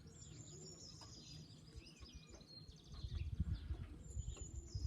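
Small birds chirping and twittering faintly, with an irregular low rumble over the last couple of seconds.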